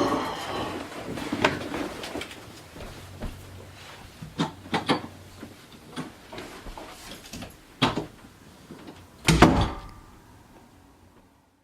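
A series of irregular knocks and clunks, the loudest a cluster about nine and a half seconds in, then fading out.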